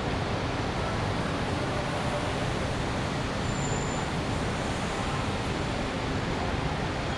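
Steady urban traffic noise: a dense, even hum of many vehicles with no single passing car or event standing out.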